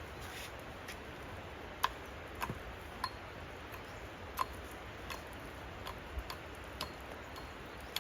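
Scattered light ticks and taps at an irregular pace, about ten in all, over a steady low hiss.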